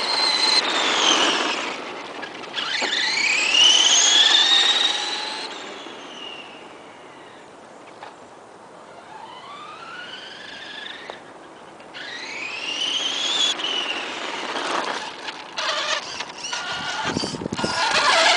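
Modified Tamiya DF02 electric RC monster truck making speed passes: its Team Powers 540 electric motor and 16-tooth pinion whine, rising in pitch as it accelerates and falling away as it slows, several passes over. Near the end the whine comes in short, choppy bursts of throttle.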